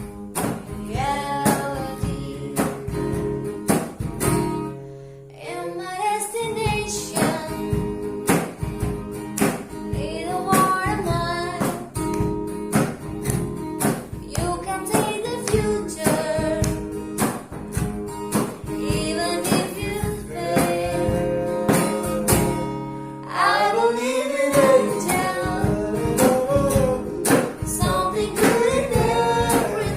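A woman singing a pop song to acoustic guitar strumming, with a brief guitar-only pause in the voice a few seconds in.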